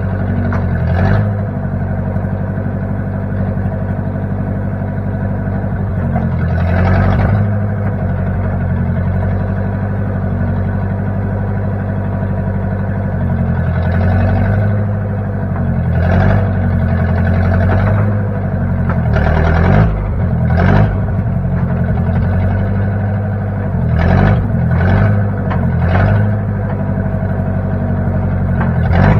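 The engine of a 1960 Case 540 backhoe running steadily, swelling louder briefly several times as it is worked.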